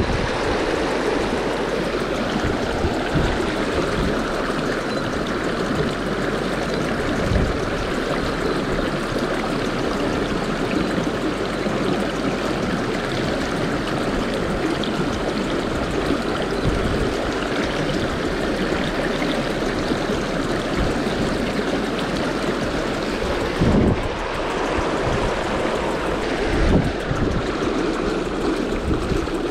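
Small river's water rushing steadily, with a few low thumps scattered through.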